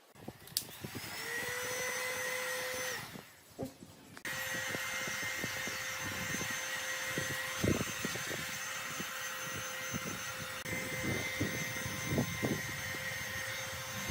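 High-speed electric power tool motor running with a steady whine. It winds up, stops about three seconds in, then starts again a second later and runs on, with occasional knocks.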